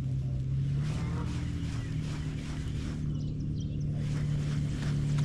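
A boat motor running with a steady hum.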